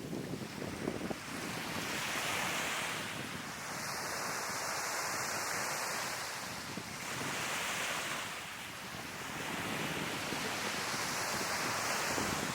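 Sea waves breaking and washing up on a beach, the surf swelling and fading every few seconds, with wind buffeting the microphone.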